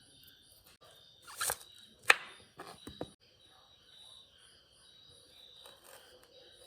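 Insects chirping steadily in a high pulsing chorus. A few knocks and rustles come between about one and a half and three seconds in, the sharpest just after two seconds.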